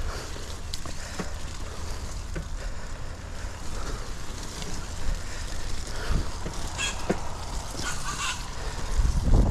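Mountain bike being ridden over a rough wet trail: a steady low wind rumble on the microphone with scattered knocks and rattles. There are two short higher-pitched sounds about seven and eight seconds in, and a heavy thump just before the end.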